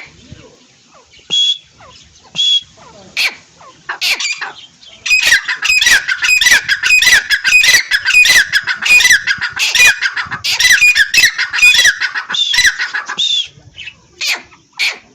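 A pair of francolins (teetar) calling: a few separate shrill calls at first, then from about five seconds in a fast, loud run of repeated calls lasting about eight seconds, then a few single calls again near the end.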